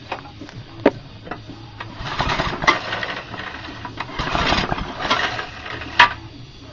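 Small Flymo petrol mower engine being pull-started: two hard pulls on the recoil starter about two seconds apart, each a second or so of fast cranking, with sharp clicks before and after. The piston had seized and been freed, and oil is coming out of the exhaust.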